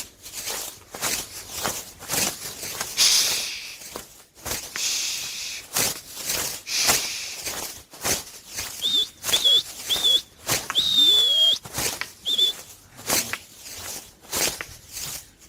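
Rapid rustling and knocking, with a few whooshes. Partway through, a run of short, high whistles and one longer, slightly falling whistle, the way a keeper whistles to his flying homing pigeons.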